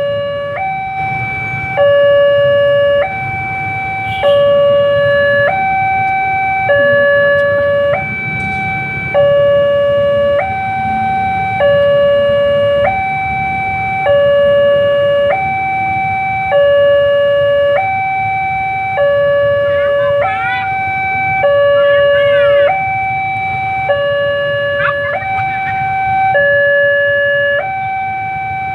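Railway level-crossing warning alarm sounding its two-tone signal, a higher and a lower tone alternating about every second and a quarter without change in pitch, which warns that a train is approaching. A low rumble runs underneath.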